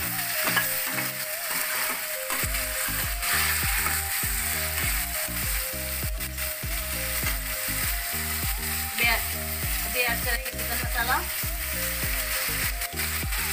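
Raw chicken pieces sizzling as they fry in hot oil and garlic-ginger paste in a steel kadhai, with a metal spatula scraping and stirring them. Instrumental background music with a steady beat runs underneath.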